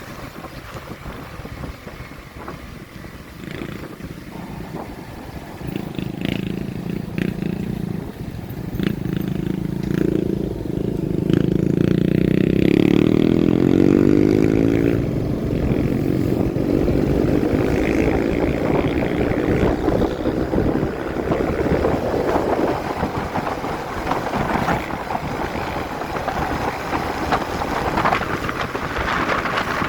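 Motorcycle engine running under way, with wind and road noise; the sound swells to its loudest a little before the middle and stays raised through the rest.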